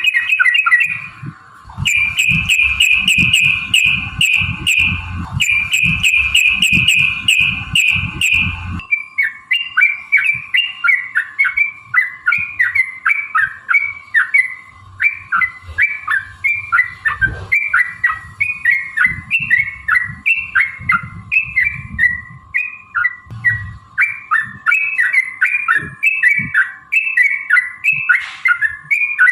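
Yellow-vented bulbul (trucukan) singing in long, rapid chattering runs of bubbly notes. A burst of tightly packed notes over low thumps in the first nine seconds gives way to evenly repeated phrases.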